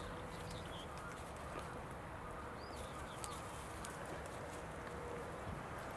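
Steady outdoor background with a small bird giving a few short, high chirps, scattered faint light clicks, and a faint steady hum that stops near the end.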